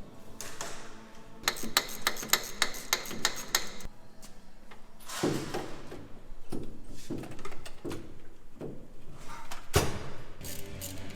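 Hand-tool work on a car under disassembly: a quick run of sharp taps, about five a second, then scattered knocks and clanks, with one sharp knock near the end.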